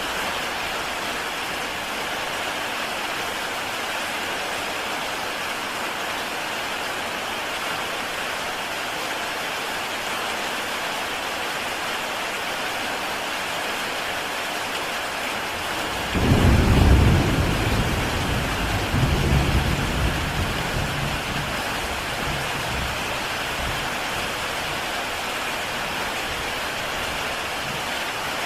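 Heavy rain falling steadily on a tile roof. About halfway through, a low rumble of thunder breaks in suddenly, swells a second time and fades away over several seconds.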